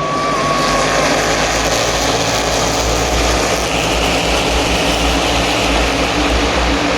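Loud, steady roar of engines with a deep rumble underneath.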